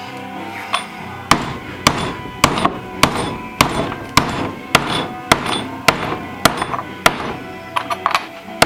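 Hammer striking metal washers to flatten them: a steady run of sharp blows, about two a second, beginning about a second in.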